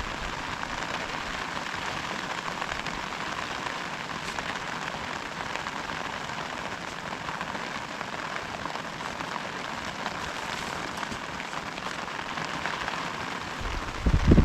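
Heavy rain falling steadily, an even hiss. Near the end comes a short, loud, low thump.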